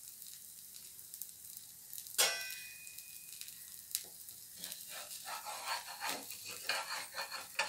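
Multigrain egg dosa sizzling on a hot tawa. A sharp metal clink with a brief ring comes about two seconds in and another tap near four seconds, then a metal spatula scrapes around the dosa to loosen it for turning.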